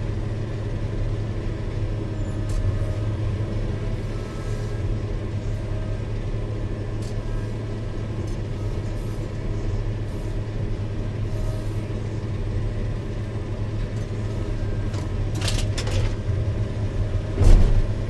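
Diesel engine of a Caterpillar 120K motor grader running steadily under work, a low drone. A few clicks sound near the end, then a louder knock just before the end.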